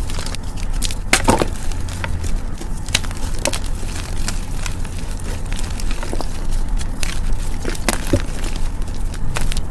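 Gym chalk being crushed, giving soft crunches and scattered crisp crackles, the strongest about a second in and near the end, over a steady low hum.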